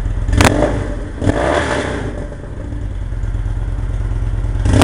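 2011 Victory Cross Country's V-twin running through aftermarket Nascar 6 exhaust pipes, idling with a deep steady rumble and blipped up in quick throttle revs about half a second in, again a second later, and once more near the end.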